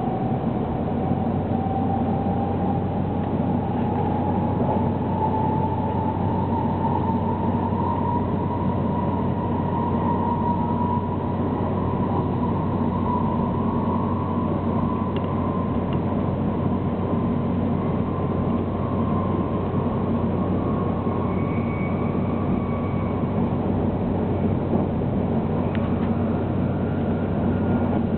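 Inside a 700 series Shinkansen running at speed: a steady rumble of wheels on rail, with a whine that rises slowly in pitch over the first dozen seconds and then holds steady, the sound of the train still gathering speed.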